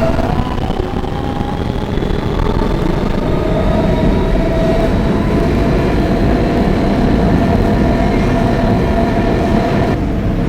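R160B subway train with Siemens propulsion running at speed between stations: a steady rumble of wheels on rail under a held motor whine.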